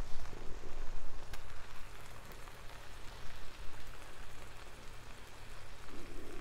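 Smash burger patties with melting cheese and toasting buns sizzling and crackling on a Blackstone flat-top griddle, steady with a few sharper pops, over a low steady rumble.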